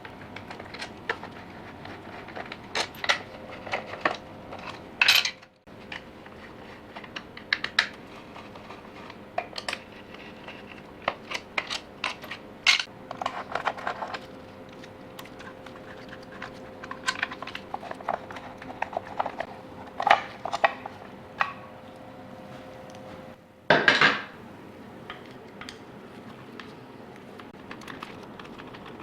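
Metal hand tools and engine parts clinking and tapping in irregular, sharp knocks, the sounds of dismantling a motorcycle engine, with a louder rattling scrape near the end.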